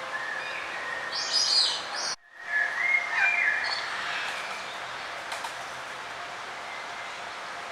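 Several songbirds singing and chirping in short phrases over a steady hiss of outdoor background noise, loudest in the first half. About two seconds in, the sound cuts out completely for a moment.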